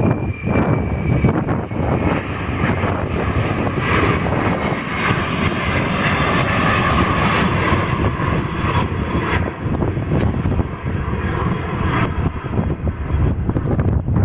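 Airliner's engines passing close by, the noise swelling about four seconds in and easing off near the end, with wind buffeting the microphone.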